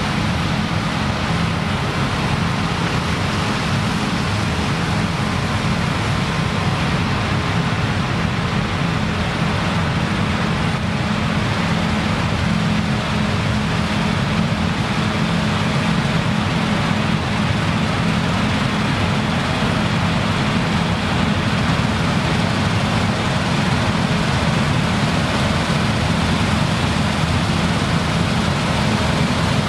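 Claas Lexion combine harvester running steadily at work, a constant low engine hum under an even rushing noise.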